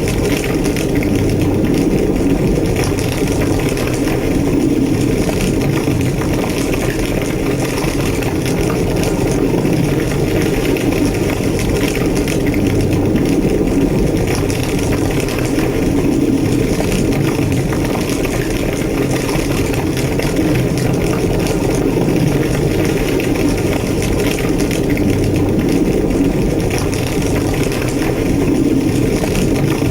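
Large structure fire burning: a steady, loud roar of flames with constant crackling.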